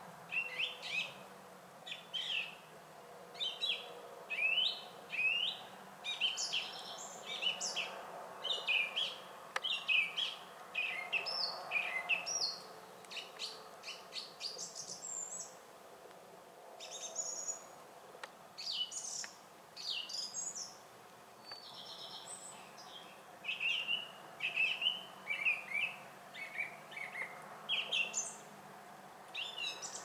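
Songbirds chirping and twittering: a dense run of short, high calls and trills, easing off briefly twice before picking up again.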